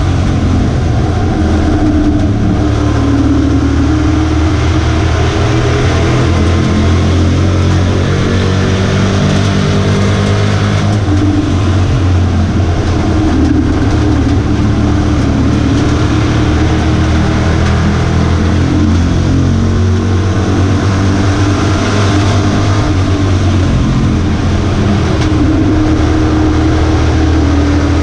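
A Pro Truck's V8 racing engine running hard at race pace. Its pitch rises and falls every few seconds as it accelerates and lifts through the corners.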